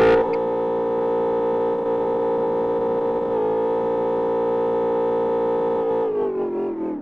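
BMW E60 M5's V10 engine held at steady high revs, one constant pitch with strong overtones. About six seconds in, the revs begin to fall.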